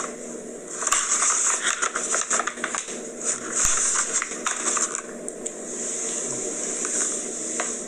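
Close-up chewing of a cookie, with many small crackly clicks over an uneven hiss that swells and fades.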